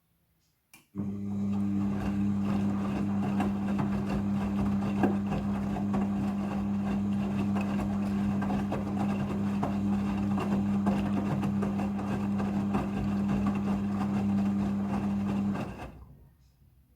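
Front-loading washing machine running a rinse cycle: a steady motor hum with water and clothes churning in the drum. It starts about a second in and stops abruptly near the end.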